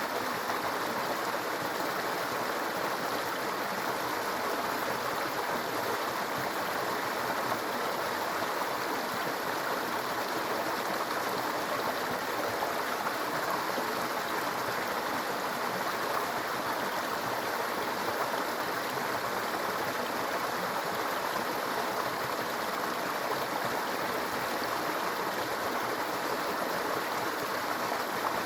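A small brook babbling and gurgling over stones, a steady even rush of water.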